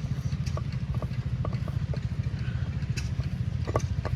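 An engine running steadily nearby with an even, rapid low beat, with a few light clicks and taps over it.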